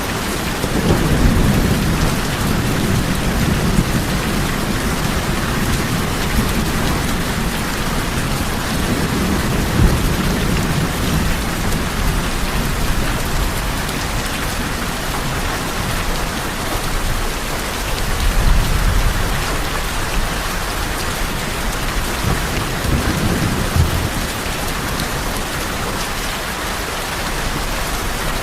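Heavy rain falling steadily on tin roofs, a dense even hiss, with low rumbles of thunder swelling and fading several times.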